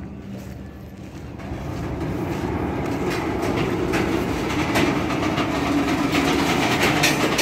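A freight train's covered hopper cars starting to roll past at close range. Steel wheels rumble on the rails with scattered clicks, and the sound grows louder from about a second and a half in as the train gets moving.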